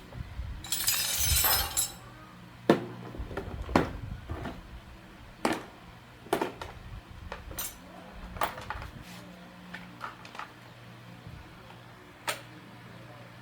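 Hard objects clinking and knocking as they are handled: a brief rattle about a second in, then single sharp clinks every second or so, over a low steady hum.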